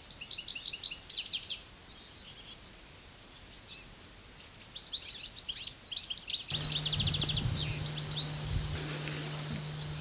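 Songbirds singing: bursts of quick chirping notes and a rapid trill. About two-thirds of the way through, a steady low hum and a background hiss come in under the song.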